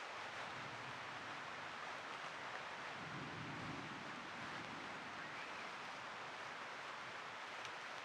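Steady light rain, an even soft hiss, with a faint low rumble about three seconds in.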